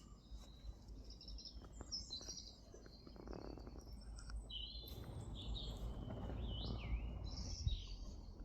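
Songbirds singing and chirping: a string of short, high calls with quick rising and falling notes, over a low rumble that grows louder toward the end.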